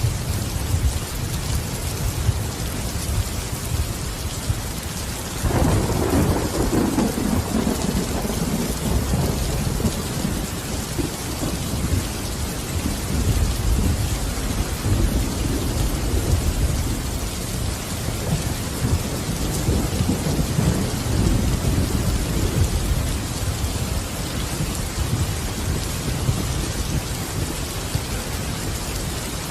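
Steady rain falling, with a roll of thunder that breaks in sharply about five seconds in and dies away slowly over the next several seconds.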